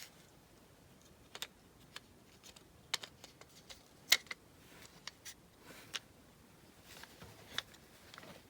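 Irregular small clicks and taps of die-cast model car parts being handled and pressed together, with the sharpest click about four seconds in.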